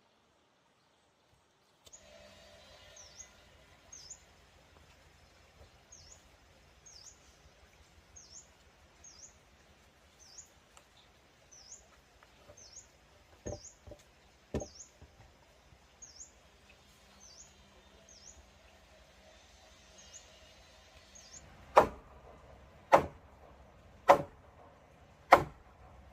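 A bird gives short, repeated high chirps over quiet outdoor ambience, with two knocks midway. Near the end come four loud, evenly spaced strikes about a second apart, a tool hitting wood.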